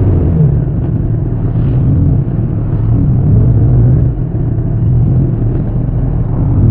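Bimota SB3's air-cooled Suzuki GS1000 inline-four running at low revs while under way, its exhaust a steady rumble. The engine note starts rising again near the end as the rider opens the throttle.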